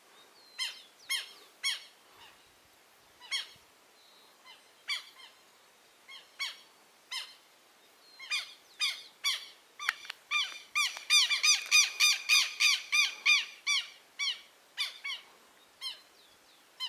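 Southern lapwings calling: short, harsh calls repeated at irregular intervals. Near the middle they speed up into a loud, fast run of about four calls a second, then slow down again.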